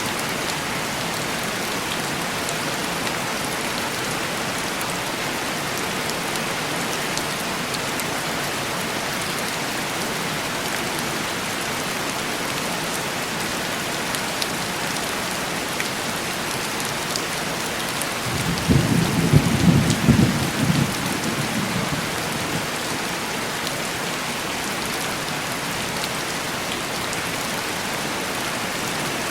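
Steady heavy rain tapping on a window pane, with a low rumble of thunder rising about two-thirds of the way through and fading over a few seconds.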